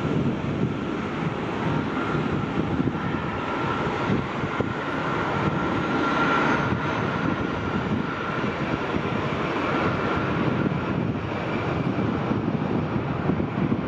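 Jet airliner's engines running: a steady rush with a high fan whine that swells about six seconds in and then eases as the aircraft passes.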